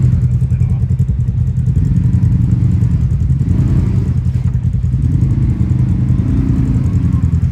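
Side-by-side UTV engine running close by: a steady, rapidly pulsing low rumble, with its pitch rising and falling a few times as it is throttled.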